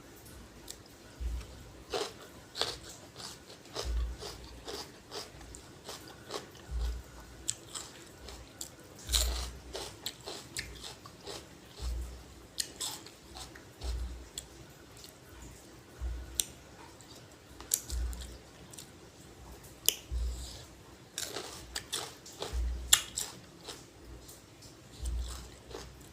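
Close-up chewing and crunching of spicy lotus-stem salad and fresh vegetables: irregular crisp bites and wet mouth sounds, with a dull low thump about every two seconds.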